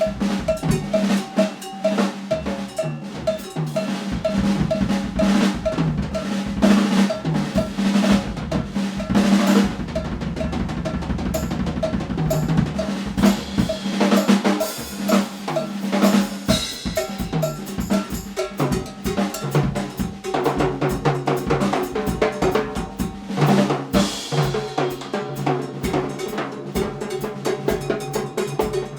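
Drum kit being played: snare hits, rimshots and bass drum over a steady cowbell pattern, with rolls along the way.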